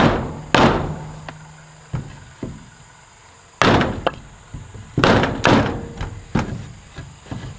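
Heavy knocks of a 4x4 wooden post being pounded into a tight, bowed-in gap. There are about eight blows at uneven spacing, each ringing briefly.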